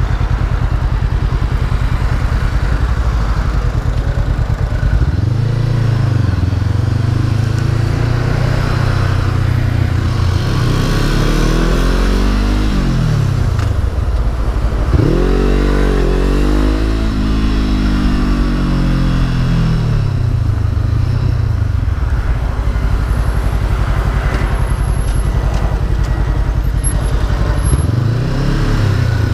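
Honda CB500F's parallel-twin engine running under way. Its pitch rises and falls several times as the bike accelerates, changes gear and slows, with one sharp drop and climb about halfway through.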